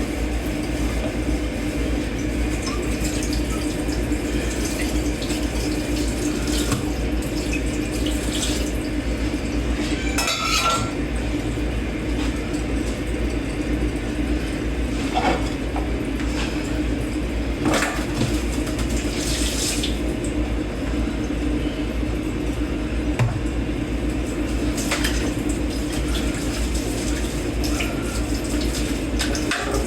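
Dishes being washed by hand in a kitchen sink: water running steadily, with plates and cutlery clinking every few seconds over a steady low hum.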